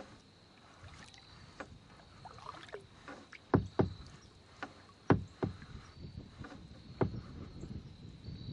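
Kayak paddle strokes: the blades dipping and splashing, with a string of sharp knocks, the loudest coming in quick pairs a little over three seconds in and again around five seconds in.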